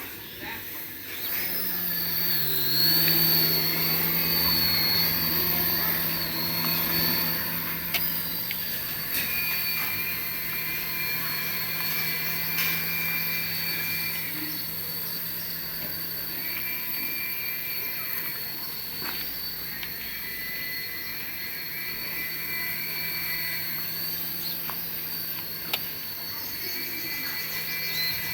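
Small electric motor of a remote-control toy running with a steady whine and hum, with short higher tones coming and going over it.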